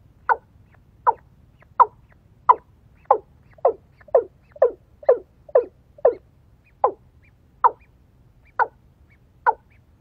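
A bird calling over and over in short notes that each drop in pitch, about one to two a second, coming faster around the middle and slowing again toward the end.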